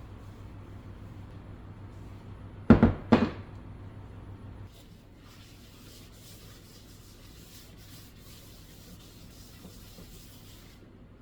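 Two sharp knocks about half a second apart, like a cupboard door or a household object being set down, over a steady low hum; faint rustling follows.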